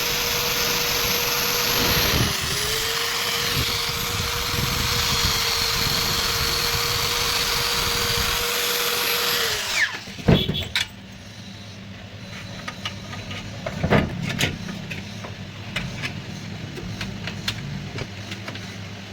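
Power drill running at a steady speed, dipping briefly about two seconds in, then winding down and stopping about ten seconds in. Scattered clicks and knocks follow.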